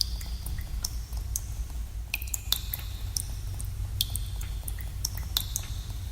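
Water dripping in a cave: about a dozen irregular drops, each a sharp plink, many with a short ringing tone, over a steady low rumble.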